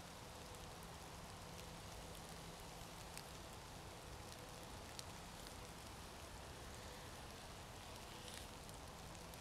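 Faint crackling of a small wood-chip fire just lit in a dug-out fire pit, a steady soft hiss with scattered sharp pops as the kindling catches.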